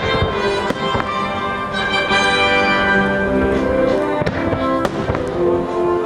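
Orchestral show music over a fireworks display, with several sharp firework bursts going off at irregular moments over the music.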